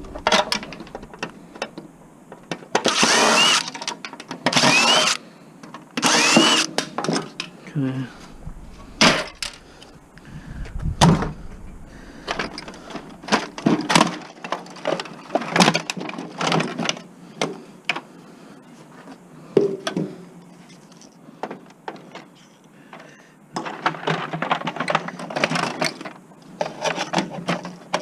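Three short bursts of a handheld power drill backing out screws, each with a whine that rises as it spins up, then scattered clicks, knocks and clatter of plastic and metal parts being pried apart and handled.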